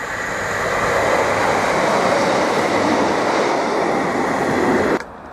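Train passing through the station at speed without stopping: a steady rush of wheel and rail noise that builds over the first second and cuts off suddenly near the end.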